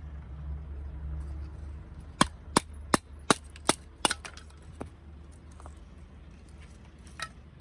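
A quick run of sharp knocks, like wood being struck: six loud ones in under two seconds, a few fainter ones after, and one more near the end. A low rumble sits under the first two seconds.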